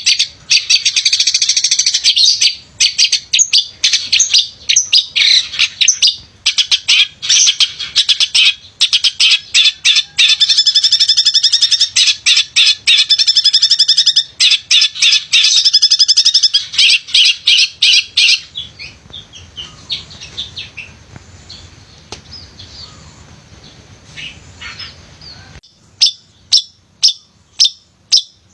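A male long-tailed shrike (pented) singing hard: about eighteen seconds of fast, loud chattering phrases, then a softer, quieter stretch, a brief pause, and near the end a run of sharp repeated calls about two or three a second.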